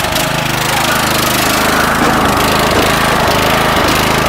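Riding lawn tractor's small engine running steadily, getting a little louder about a second in.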